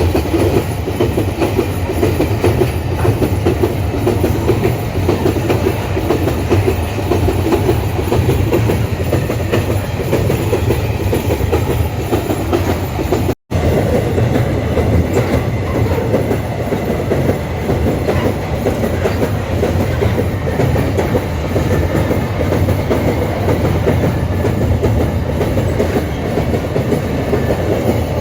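Empty iron ore wagons rolling past, with a steady clatter of wheels over the rail joints. The sound cuts out for an instant about halfway through.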